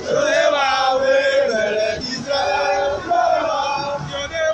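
A crowd of marchers singing a chant together, with long held notes.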